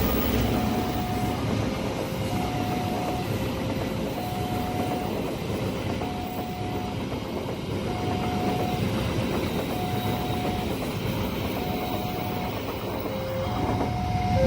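Train running past a railway level crossing, a steady rumble with wheel clatter, under the crossing's electronic warning alarm sounding a lower and a higher tone in turn, about one pair every two seconds.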